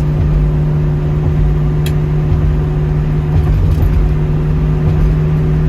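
Steady engine drone and road noise inside the cabin of a 1972 Ford Mustang Mach 1 cruising at highway speed, with a single short click about two seconds in.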